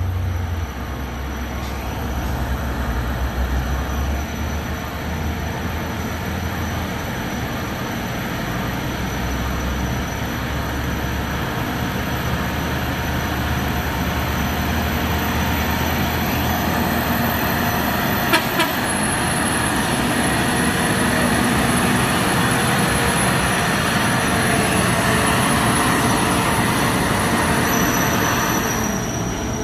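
Heavy truck engines running with steady road traffic noise; a deep engine drone fades out after about ten seconds, and there is a single short click about 18 seconds in.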